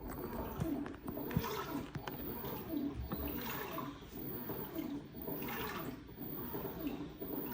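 LG WT16WV6 16 kg washing machine agitating towels in rinse water, a rhythmic swish of sloshing water about once a second: the rinse stage, before draining and spinning.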